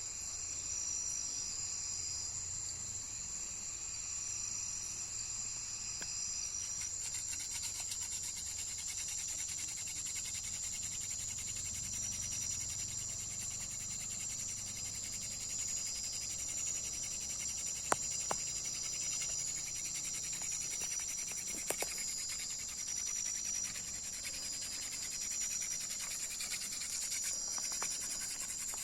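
Night insect chorus: a steady, high-pitched trilling that carries on throughout. Two sharp clicks are heard partway through.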